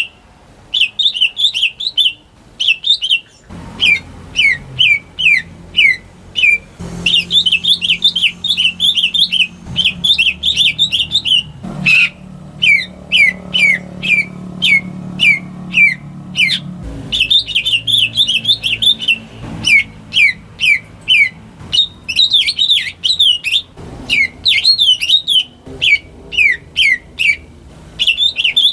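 Home-kept cucak ijo (green leafbird) singing: quick runs of sharp, downward-slurred whistled notes in phrases of a second or two, broken by short pauses.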